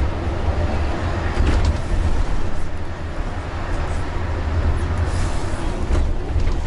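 Bus engine and road noise heard from inside the cabin on the move: a steady low rumble with a few faint rattles.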